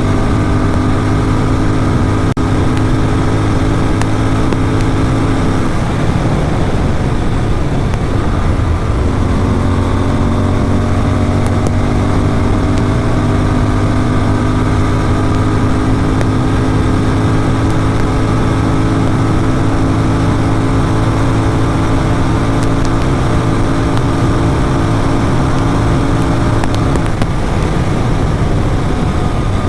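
Motorcycle engine fitted with an Atom exhaust, running hard at highway speed with a steady note and wind rush. The note breaks up about six seconds in and settles into a steady pitch again about three seconds later.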